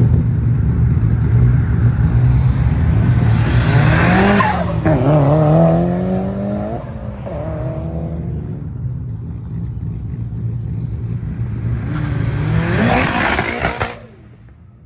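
A car engine rumbling low, then accelerating hard about four seconds in, its pitch rising through a couple of upshifts before fading away. Near the end another loud surge of vehicle noise passes, then the sound cuts off suddenly.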